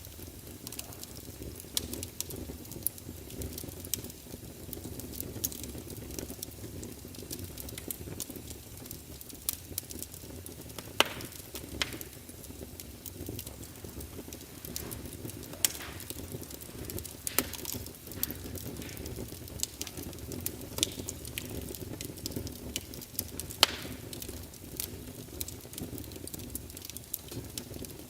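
Fire crackling: a steady low rumble with frequent irregular sharp pops and snaps.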